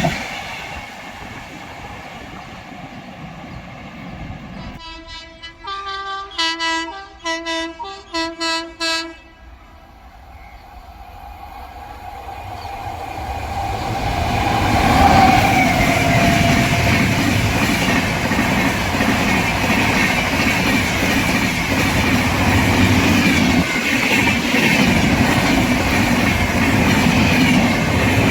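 Train horn sounding a rapid series of short blasts, then a high-speed express train approaching and passing close by, its rushing noise rising and staying loud, with wheels clattering over the rail joints.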